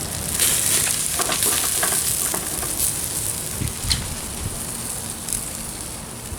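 Whole chicken roasting over an oak wood fire: a steady high sizzle with scattered sharp crackles and pops.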